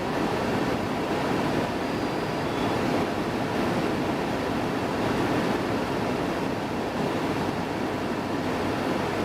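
Steady rushing road and wind noise of a car driving at speed, even throughout with no distinct engine or motor note.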